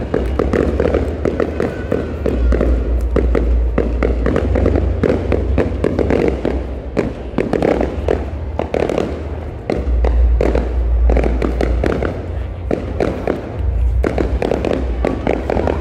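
An aerial fireworks display going off without a break: many bangs and crackles in quick succession over deep, rumbling booms.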